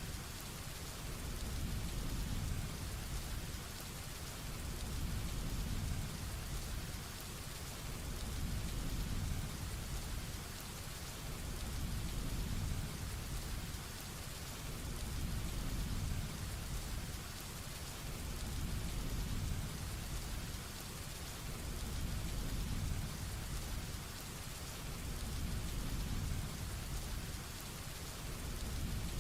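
Heavy rain falling steadily, a dense even hiss, under a low rumble of thunder that swells and fades about every three seconds.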